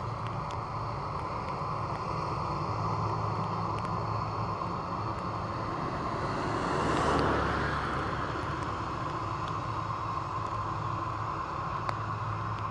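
Steady rumble and whine of a Boeing 767-300's jet engines after landing, with a broad swell about seven seconds in that drops in pitch as it fades.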